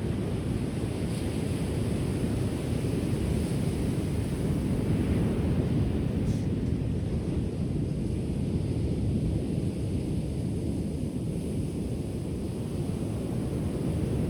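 Ocean surf: a steady low wash of waves on the shore, with no separate breaks standing out.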